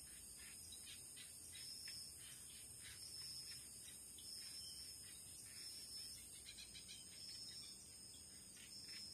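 Faint chorus of forest insects: a steady high-pitched drone with a pulsing trill just below it, and scattered short chirps beneath.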